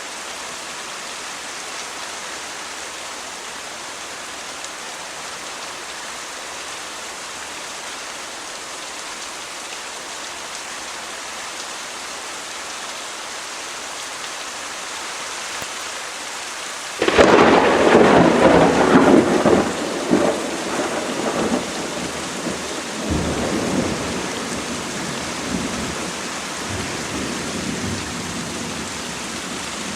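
Steady rain falling, then a little past the middle a sudden loud thunderclap that rolls on as rumbling, dying away in uneven swells with a second rumble a few seconds later, the rain continuing underneath.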